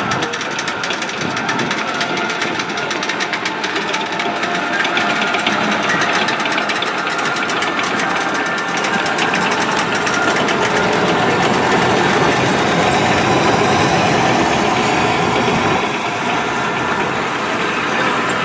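Military armored vehicles, M1A1 Abrams tanks among them, driving: a steady engine whine with a dense mechanical rattle, growing louder about halfway through.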